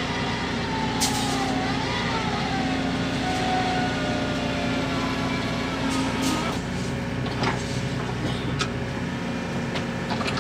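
Mini excavator's diesel engine running steadily under work, with a held whine for a few seconds and several sharp knocks in the second half.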